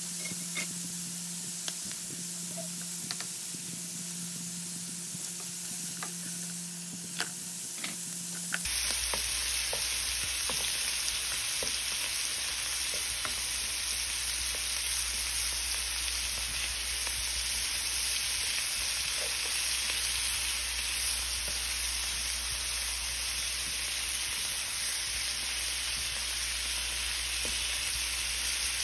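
Shrimp and scallops sizzling in hot oil in a nonstick pan, with a few light spatula taps against the pan; a low hum runs under it at first. About a third of the way in, the sizzle turns suddenly louder and denser.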